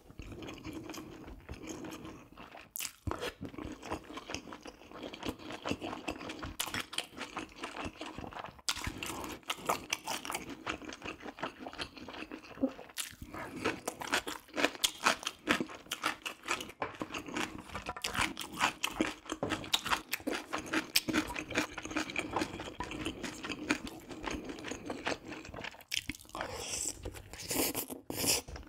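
Close-miked eating sounds: a person chewing and biting into spicy braised pork ribs with rice cakes and mushrooms, making a dense, continuous run of mouth clicks and crunches.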